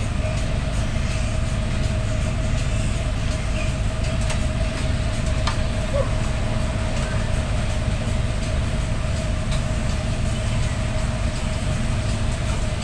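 Steady low rumbling drone of running machinery, with a constant mid-pitched hum over it and a few faint clicks.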